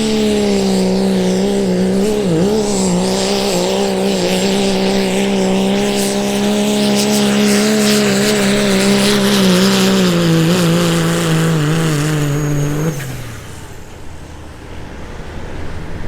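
Diesel pickup engine at full throttle pulling a sled, its pitch sagging slowly over about thirteen seconds as the truck loads down. Then the throttle cuts suddenly and the engine falls away to a much quieter run.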